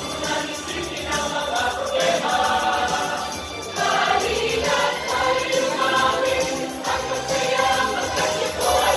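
Choir singing a Christmas carol over instrumental accompaniment, with a fast, steady ticking rhythm running high above it.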